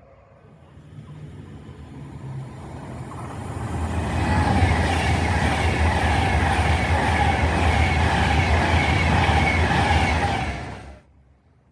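A train passing close by: the noise builds as it approaches, runs loud and steady with a low rumble and wavering higher tones, then cuts off suddenly near the end.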